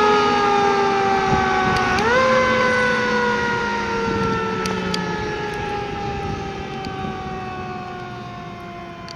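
Fire truck siren winding down in a slow falling wail. About two seconds in it briefly rises again, then keeps sinking in pitch. It fades steadily as the truck pulls away.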